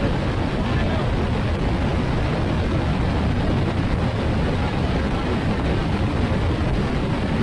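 Steady rush of wind and road noise from a motorcycle riding at speed, heavy in the low end and unchanging, with no clear engine note standing out.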